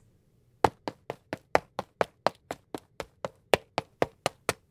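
Quick footsteps, a steady run of about eighteen sharp steps at roughly four a second.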